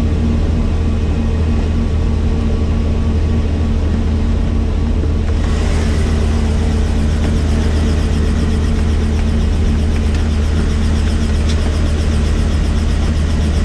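Helicopter running steadily: a loud, even low drone made of several steady tones. About five and a half seconds in, a higher hiss joins and stays.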